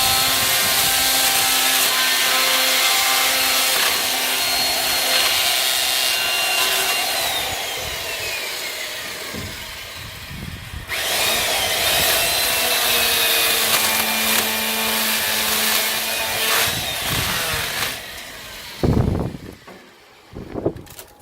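Electric saw cutting firewood: the motor runs under load, winds down in pitch about seven seconds in, then starts again and cuts for several more seconds. A few knocks follow near the end.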